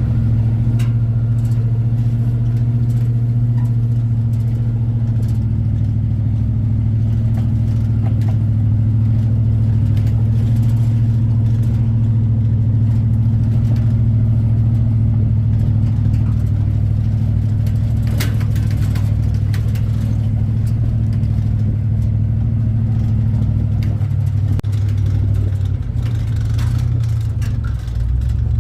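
A car driving steadily, its engine and road noise making a continuous low hum and rumble. The hum dips slightly in pitch and level near the end.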